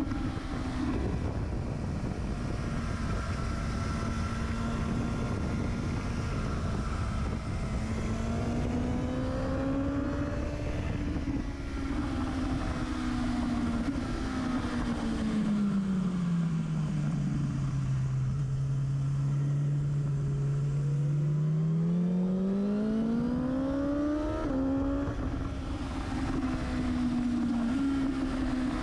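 Motorcycle engine running hard, heard close from the bike itself over a steady rush of wind. About halfway through the revs fall away smoothly, hold low for a few seconds, then climb back up, with a quick gearchange step a few seconds before the end.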